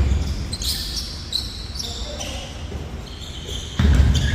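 Basketball play on an indoor court: sneakers squeaking in a quick run of short, high squeals, with low thumps of the ball and feet on the floor and a louder thump near the end.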